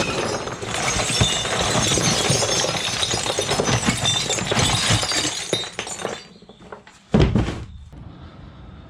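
Dense, continuous crashing and clattering of something breaking, with many sharp clicks, stopping about six seconds in; a single heavy thump follows about a second later.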